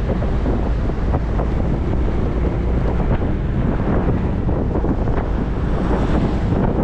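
Wind buffeting the microphone of a moving motorcycle, loud and steady, with the bike's engine running underneath.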